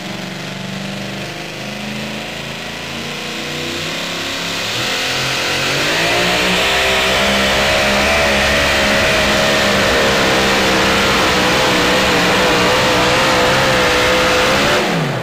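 The supercharged engine of a super modified two-wheel-drive pulling truck under full throttle on a pull. It runs at moderate revs, climbs sharply about five seconds in and holds a high, slightly wavering pitch. Near the end it is shut off, the pitch falling away quickly.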